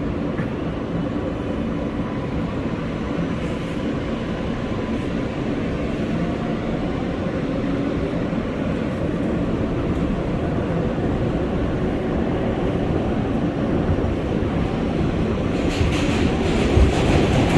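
R143 subway train running between stations: steady wheel-on-rail rumble with a motor hum. It grows louder and hissier near the end.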